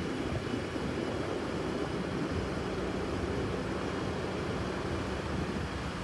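Distant Norfolk Southern train rolling along the tracks: a steady rumble of wheels on rail, with a low steady hum joining about two seconds in.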